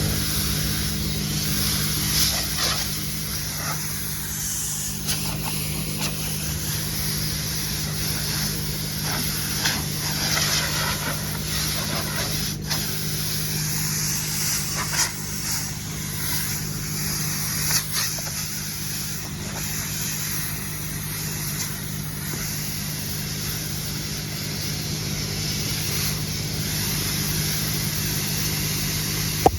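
Compressed air blowing from an air hose, a steady hiss over a constant low engine or compressor hum, with scattered sharp taps.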